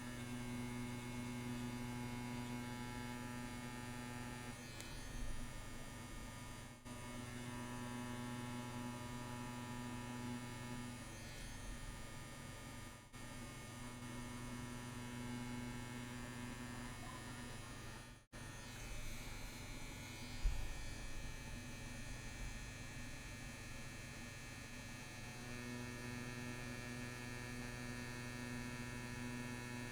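CNC WE tattoo machine buzzing steadily as it runs needle lines into practice skin. The sound drops out briefly three times.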